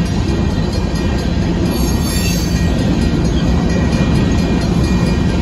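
Covered hopper cars of a Union Pacific grain train rolling past close by: a steady, loud rumble and clatter of steel wheels on the rails.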